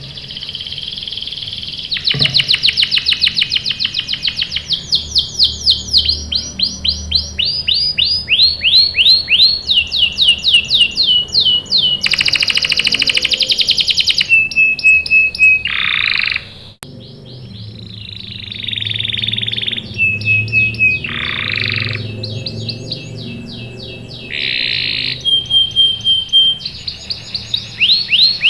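Canary singing without pause. Its song runs as fast series of repeated chirps, dense rolling trills and held whistled notes, phrase after phrase, with a brief break about two-thirds of the way through.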